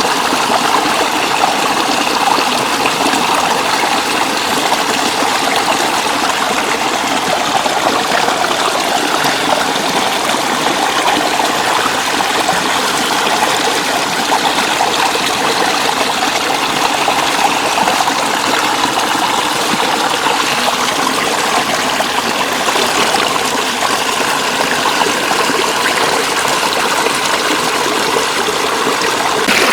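Floodwater flowing steadily, a constant rush and trickle of running water.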